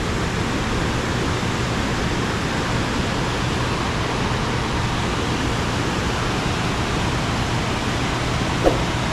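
Steady, even rush of water pouring over a waterfall, with a short click near the end.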